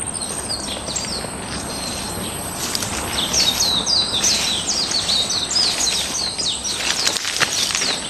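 Birds chirping in a rapid run of short, falling chirps, about three a second, from about three seconds in until about seven, with a few scattered chirps before it, over a steady outdoor hiss.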